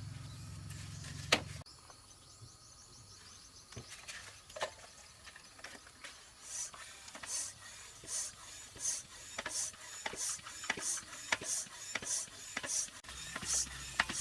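Repeated hand rubbing or scraping strokes on a surface, about one and a half a second, starting about six seconds in. Before them come a few scattered knocks and clicks, and a low hum that stops early on.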